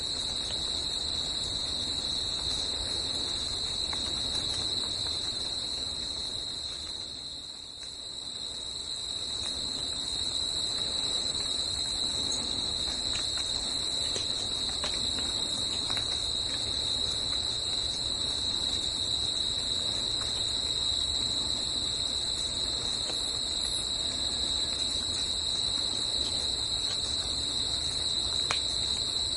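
A forest insect chorus, a continuous high-pitched chirring that holds steady throughout, over a soft background hiss that briefly dips about seven seconds in.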